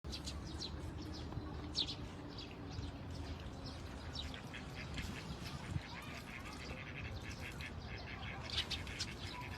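Many small birds chirping at once: rapid short chirps keep overlapping all the way through, over a steady low background rumble.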